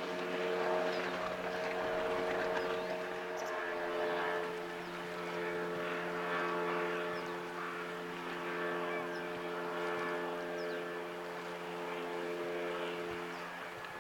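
Boat engine running at a steady pitch, over a continuous rushing noise.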